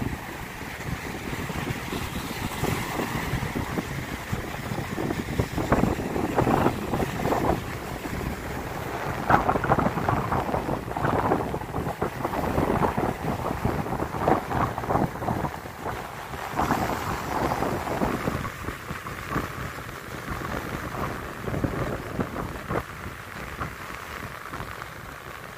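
Wind buffeting the microphone over a steady rush of water, with irregular gusts and surges.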